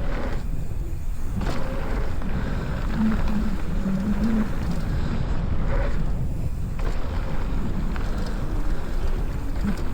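Wind buffeting the microphone of a riding mountain bike's camera, a steady low rush, with a few brief clatters from the bike on the dirt trail.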